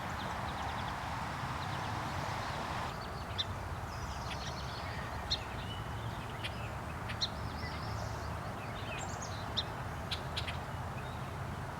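Scattered short, high bird chirps over a steady background hiss and low hum, starting about three seconds in.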